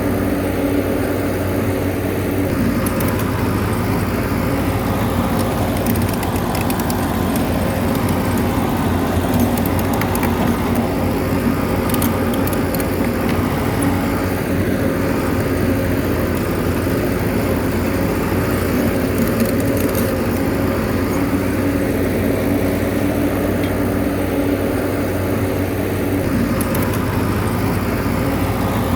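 Bulldozer's diesel engine running steadily, its pitch shifting slightly now and then.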